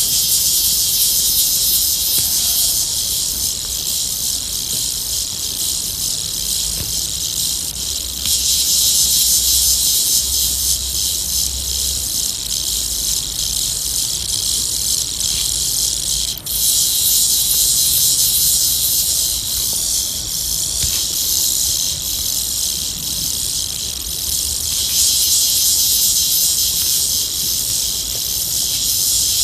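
Queensland whistling tarantula (the 'rattlesnake tarantula') hissing as a warning: a continuous dry, high-pitched hiss made by rubbing its chelicerae together. It swells louder in several stretches and dips briefly about halfway through.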